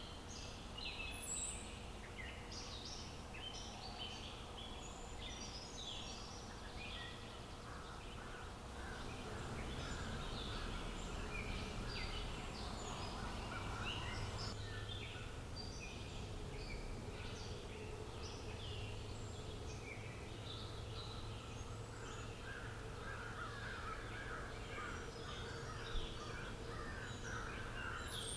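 Several wild birds chirping and calling continuously over a steady low outdoor rumble, with a faint steady hum. Toward the end a rapid run of lower calls joins in.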